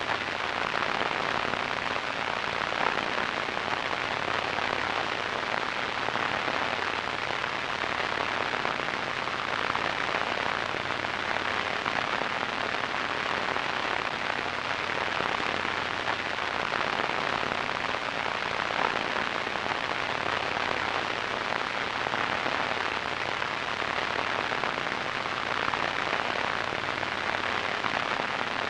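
Radio static: a steady, even hiss, with a faint low hum underneath.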